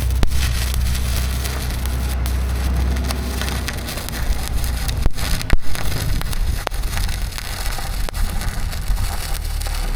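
Electric arc welding: the arc crackles and sizzles steadily, with a couple of brief breaks and sharp pops around the middle, over a low hum that is strongest in the first few seconds.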